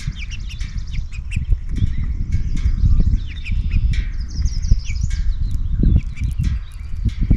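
Small songbirds chirping and calling in quick, overlapping notes, over a louder low rumble with a few dull knocks.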